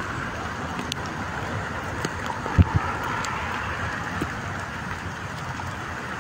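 Heavy rain beating on a car's windshield and body, heard from inside the car: a steady hiss with scattered drop clicks. Two low thumps come about two and a half seconds in.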